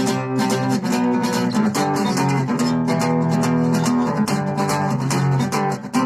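Acoustic guitar strumming chords in a steady rhythm, the instrumental intro of a song.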